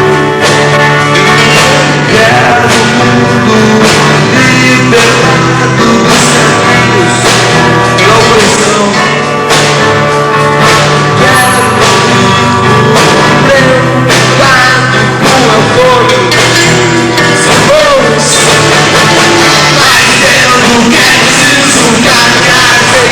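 Rock band playing live at a soundcheck: drum kit, bass and a singing voice, loud and dense throughout.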